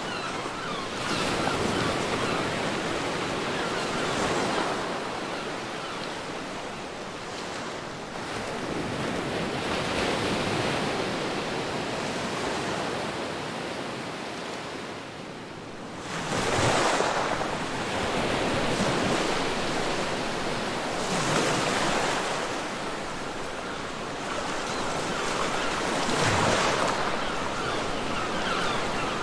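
Ocean surf washing onto a beach: a steady hiss of water with a wave surging in and fading every few seconds, the biggest breaks coming just past halfway and again twice near the end.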